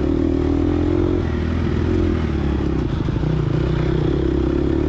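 Gas Gas EX250F four-stroke single-cylinder dirt bike engine running steadily under load through rough, choppy trail.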